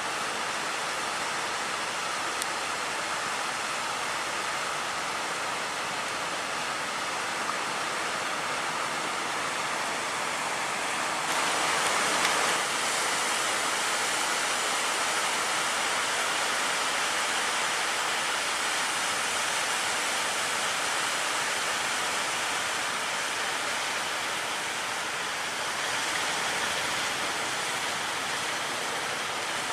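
Steady rushing noise of heavy surf and wind, with one louder surge about eleven seconds in.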